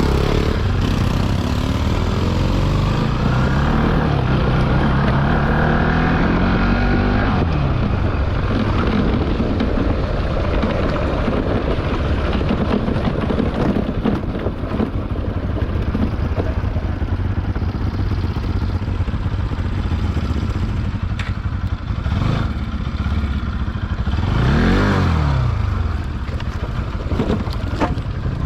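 Motorcycle engine running under way, its pitch climbing over the first several seconds, then running steadily, with another rise and fall in pitch near the end.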